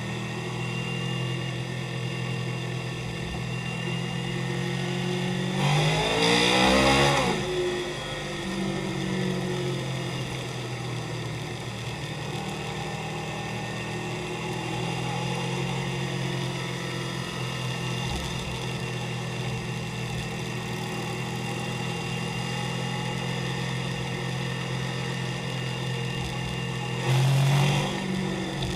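Motorcycle engines running steadily. About six seconds in, one motorcycle grows loud, its engine note falling in pitch as it goes, and there is another short loud burst of engine near the end.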